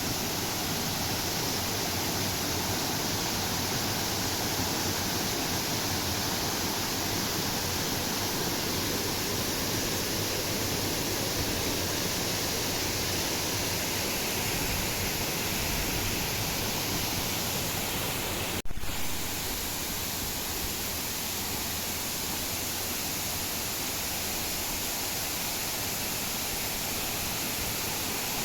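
Steady rushing of a waterfall, with a sharp click about two-thirds through.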